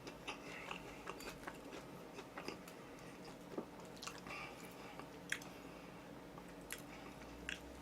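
A person chewing food close to the microphone: faint, scattered wet mouth clicks and small bites.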